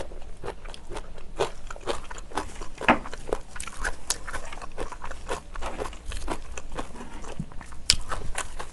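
Close-miked chewing and biting of pork back ribs braised with kimchi: a continuous stream of irregular wet clicks and crunches, with one sharp click about eight seconds in.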